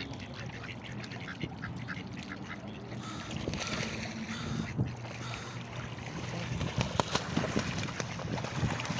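Ducks quacking in a run of short, repeated calls over a steady low hum.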